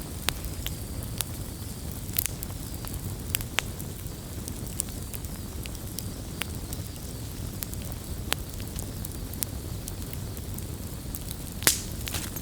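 Wood campfire crackling, with sharp irregular pops and snaps over a steady low rumble of burning; one louder pop near the end.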